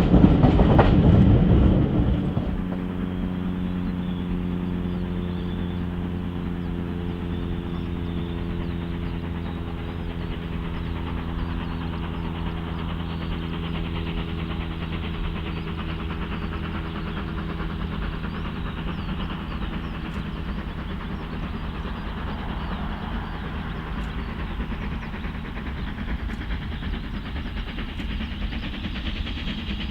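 Heritage railway train passing close, its loud rush dropping away about two seconds in. A steady hum with a clear pitch follows and fades slowly over about twenty seconds.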